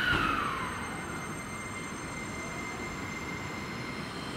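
Seibu Shinjuku Line electric train: a falling whine fades out in the first second, giving way to a steady running sound with a thin high tone.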